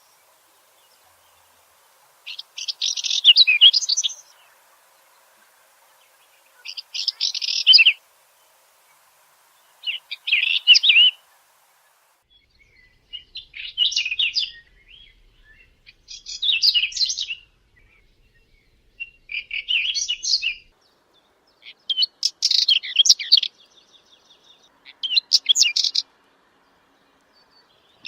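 A Saxicola chat singing: short, scratchy, warbling song phrases of a second or two each, repeated about eight times with brief pauses between them.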